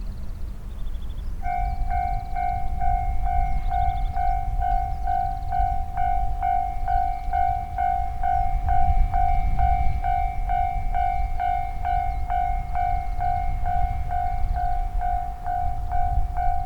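Railway level-crossing warning bell starting about a second and a half in and ringing about three times a second, over a low rumble.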